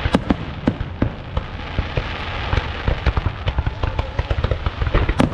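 Fireworks display: a rapid, irregular series of sharp bangs and crackles over a continuous rumble of many bursts, with faint whistling glides.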